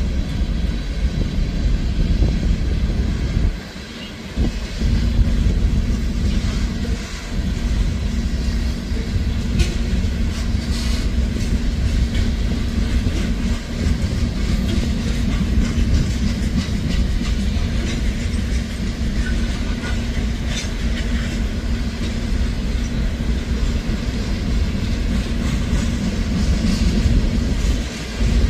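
Freight cars of a Norfolk Southern manifest train rolling past: a steady rumble of steel wheels on rail with clickety-clack over the rail joints. A steady low hum joins in about four seconds in.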